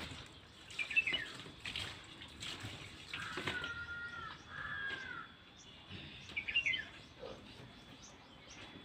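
Birds chirping: short clusters of high chirps and, in the middle, two longer whistled calls.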